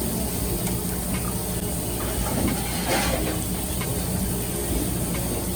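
Steady background noise, a low rumble with a constant hiss, and a single knock about three seconds in.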